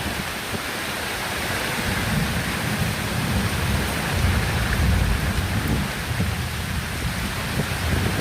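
Heavy rain pouring down in strong wind, a dense steady hiss with a gusting low rumble underneath that swells about halfway through.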